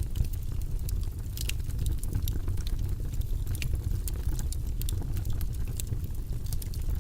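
Wood fire burning in a fireplace: a steady low rush of flame with frequent small, sharp crackles and pops throughout.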